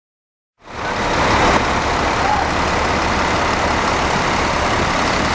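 Bus running: a steady low engine hum under a broad rush of road and cabin noise, cutting in abruptly about half a second in.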